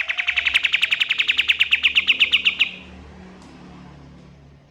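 Kapas tembak songbird singing a fast trill of repeated sharp chirps, about ten a second, that stops abruptly under three seconds in.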